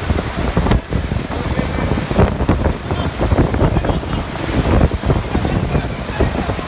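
Strong typhoon wind gusting and buffeting the microphone in a loud, uneven rush of noise.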